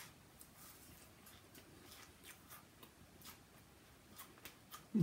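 Faint, irregular clicks and crunches of someone chewing food with their mouth close to the microphone, a few a second.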